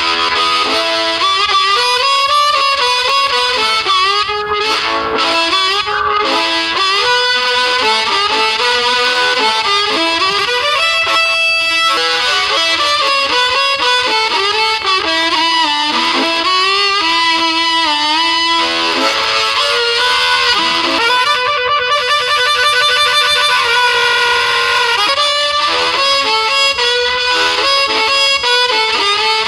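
Diatonic harmonica playing a loud, continuous melody in which many notes slide up and down in pitch.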